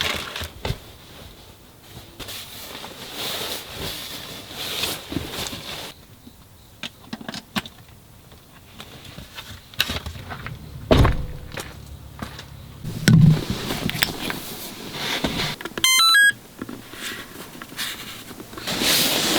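Scattered knocks and thuds of things being handled, with two louder dull thumps in the middle, and a short quick run of electronic beeps about two-thirds of the way through.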